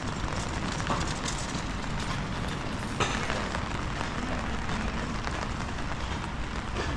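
Wind buffeting the microphone over a steady outdoor street hiss of rain, with a few short sharp clicks, the plainest about three seconds in.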